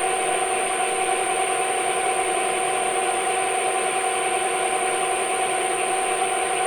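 Metal lathe running steadily while a hand-fed boring bar cuts inside a hole, a steady machine whine with several held tones.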